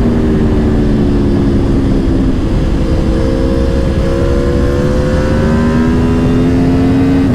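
Aprilia Tuono V4 Factory's V4 engine on the road, its pitch easing down for about the first two and a half seconds, then, after a short break, climbing steadily as the bike pulls in the next gear. Heavy wind rush underneath.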